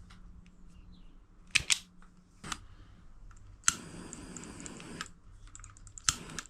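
Sharp clicks of hand tools on small wires during a wiring-loom repair. About halfway through, a click is followed by a hiss that lasts just over a second, and another click comes near the end.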